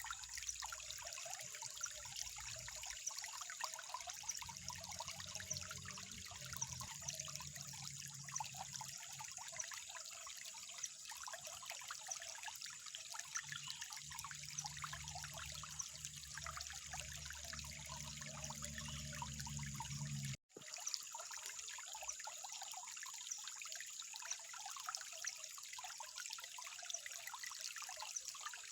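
Water trickling and splashing steadily in many small drops, like a shallow stream running over stones. The sound cuts out for an instant about twenty seconds in, then continues unchanged.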